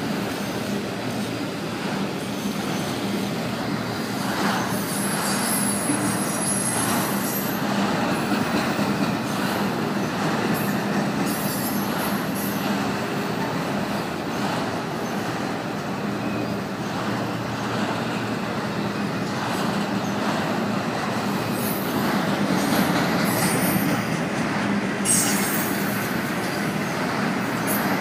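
Enclosed autorack freight cars rolling past at a grade crossing: a steady rumble and clatter of steel wheels on rail, with brief high-pitched wheel squeals several times.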